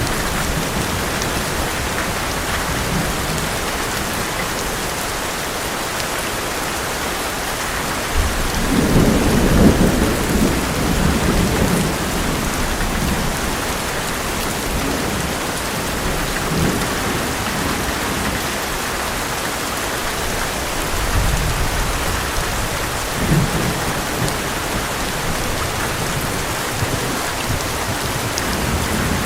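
Heavy rain drumming steadily on an old metal roof, with rolls of thunder; the loudest rumble swells about nine seconds in and fades over a few seconds, with lighter rumbles later.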